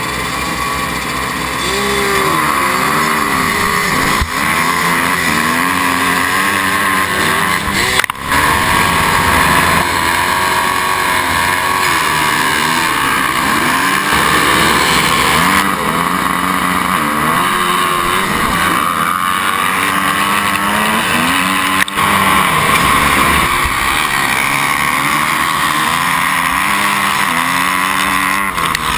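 Two-stroke motocross bikes at full throttle off a race start, the nearest engine repeatedly revving up and dropping back as it shifts, with other bikes running alongside. A sharp knock comes about eight seconds in and another near twenty-two seconds.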